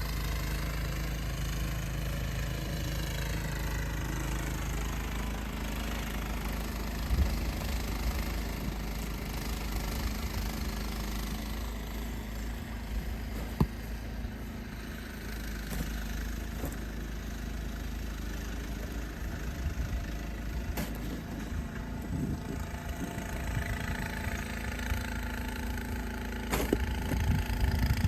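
A vehicle engine running steadily at a low hum, with a few scattered knocks and clicks.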